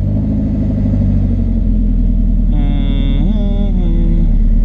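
Nissan 240SX engine idling steadily just after being started. About halfway through, a voice hums a drawn-out note over the idle for a second or two.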